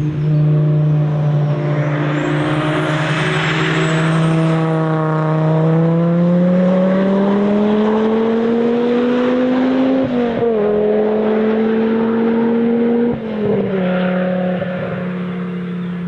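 A car engine running hard past a trackside spot. Its note holds steady, then climbs over several seconds, breaks briefly for a gear change about ten seconds in, and drops lower near the end as the throttle comes off.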